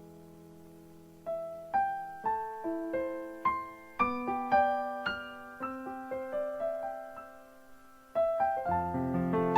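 Slow piano music: single notes struck about two a second, each ringing and fading away, after a near-silent pause in the first second. Fuller, lower chords come in near the end.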